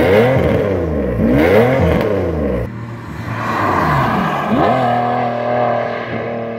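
BMW M70 V12 with a straight-piped exhaust, revved twice while the car stands still, the pitch climbing and dropping with each blip. Then the same wagon accelerates past and pulls away, its engine note rising and then holding steady as it fades.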